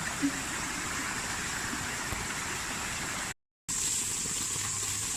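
Steady rushing noise, broken by a split-second cut to silence a little past three seconds in.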